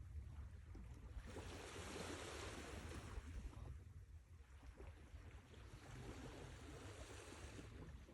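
Sea waves washing ashore: two swells of surf hiss, one after about a second and another after about six, over a steady low rumble.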